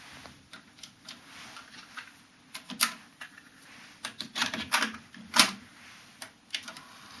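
Nakamichi DR-1 cassette deck being operated: a run of irregular mechanical clicks and clunks, the loudest about three and five and a half seconds in.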